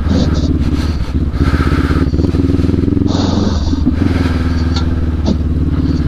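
Adventure motorcycle engine running steadily at low revs while riding a rough off-road trail, with scattered rattles and a couple of short knocks from the bike over the rough ground.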